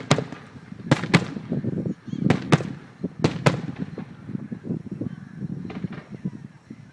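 Fireworks going off in a string of sharp bangs, mostly in close pairs about a second apart, over a low rumble, with fainter pops in the last few seconds.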